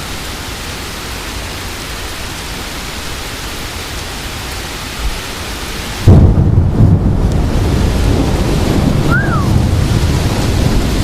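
Steady hiss of heavy rain and wind in a severe thunderstorm; about six seconds in, a loud clap of thunder breaks in suddenly and keeps rumbling low.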